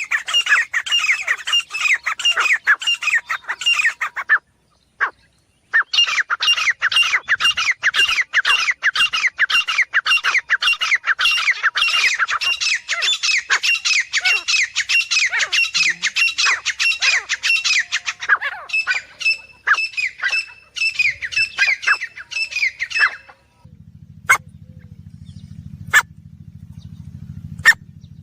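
Female grey francolin calling: a rapid run of falling notes, about two to three a second, used as a lure call for hunting francolins. The run breaks briefly around four seconds in and stops a few seconds before the end, giving way to a low hum with a few sharp clicks.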